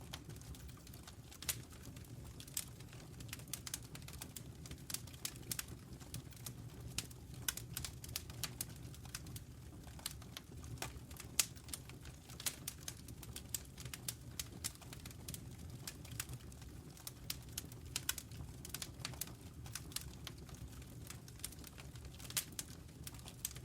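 Wood fire burning in a fireplace, crackling and popping in irregular sharp snaps over a low steady rumble of the flames.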